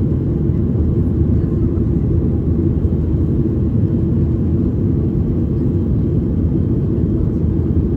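Steady low rumble of an airliner heard from inside the passenger cabin: engine and airflow noise as the jet climbs or cruises after takeoff.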